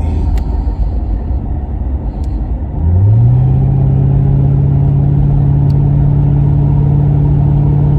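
Car engine running under way; its note rises about three seconds in and then holds steady at the higher pitch.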